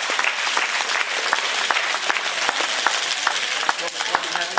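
Crowd applauding with dense, steady clapping that eases slightly near the end.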